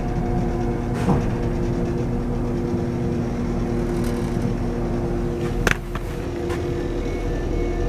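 Diesel multiple-unit train running, heard inside the carriage: a steady engine and transmission drone with a low rumble, broken by two sharp knocks. Near the end, faint repeated beeps begin.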